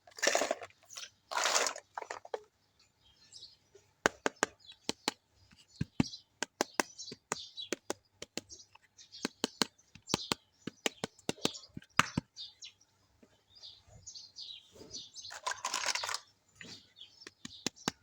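Small plastic toy kitchen pieces being handled, clicking and tapping against each other in a quick irregular run through the middle, with short rustling near the start and again near the end.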